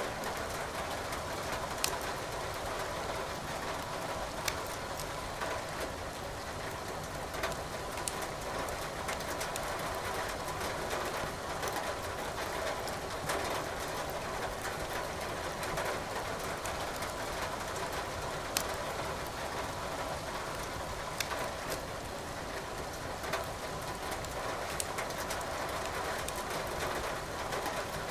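Wood burning in a fireplace, crackling with scattered sharp pops every second or two, over a steady hiss of rain.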